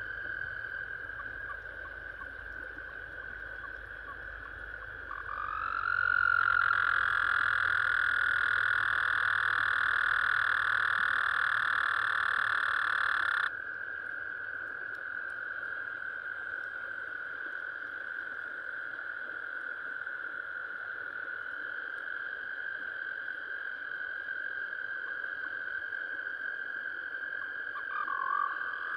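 Frogs giving their spring mating calls in a steady chorus. About five seconds in, one close frog starts a long, loud call that rises at its start, holds steady and then stops suddenly about halfway through. A short, louder call comes near the end.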